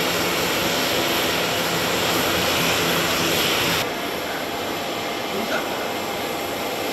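Jet airliner engine noise, a steady loud rush, dropping suddenly in level a little under four seconds in.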